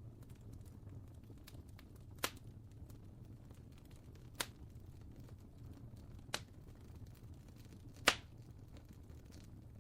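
Wood fire crackling: a low steady rumble with many small ticks and four sharp, louder pops spaced a couple of seconds apart, the last one the loudest.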